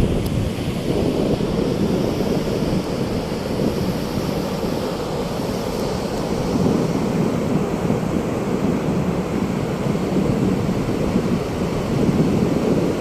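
Sea surf breaking on a beach, a steady low rushing, with wind buffeting the microphone.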